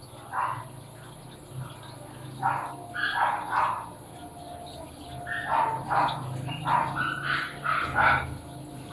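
A dog barking in short, repeated bursts, more often in the second half, over a low steady hum.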